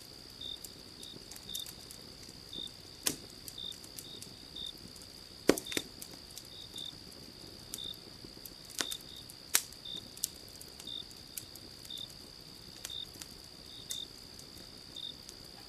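Wood fire crackling, with scattered sharp pops, the loudest about five and a half seconds in. Under it, night insects keep up a steady high drone and a short chirp that repeats every half second or so.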